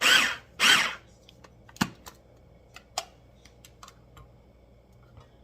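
An electric chopper attachment on an immersion blender, pulsed twice in quick succession to chop cooked chicken. Several sharp plastic clicks and taps follow as it is handled.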